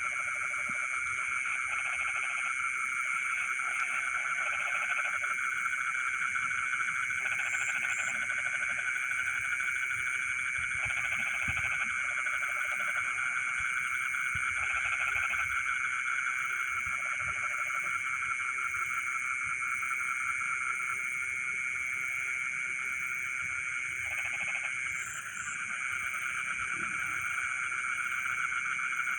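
Chorus of frogs in flooded rice fields at night: a steady, dense high trilling, with lower calls breaking in every one to three seconds.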